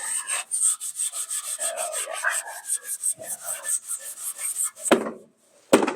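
Hand wire brush scrubbing back and forth on the truck bed's metal in quick strokes, about five a second, then two loud knocks near the end.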